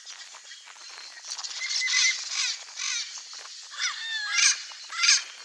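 Turquoise-fronted parrots (Amazona aestiva) calling: a rapid run of short squawk-like calls that slide in pitch, several overlapping, loudest from about a second in through to the end.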